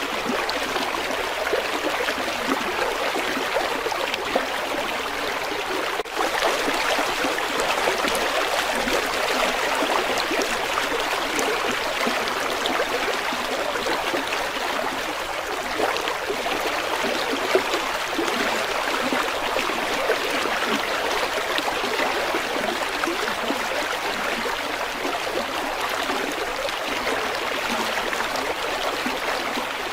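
A river flowing: a steady rush of water with a brief dip about six seconds in.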